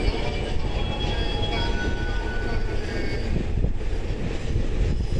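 E531 series electric multiple unit pulling out of the station: a steady low rumble of wheels on rail, with thin high tones from the traction equipment over it.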